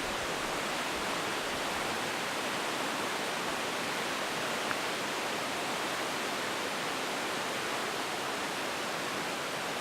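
River rapids rushing: a steady, unbroken sound of fast-flowing water.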